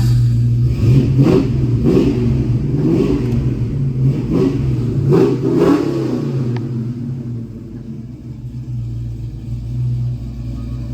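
Mustang's 347 stroker small-block Ford V8 with stainless headers, blipped in about six quick revs over the first six seconds, then settling back to a steady idle.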